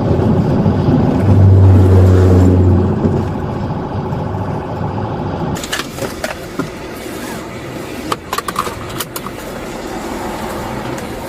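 Car engine and road noise at high speed, a loud steady low drone for the first few seconds, easing about halfway through into a quieter hiss with scattered clicks.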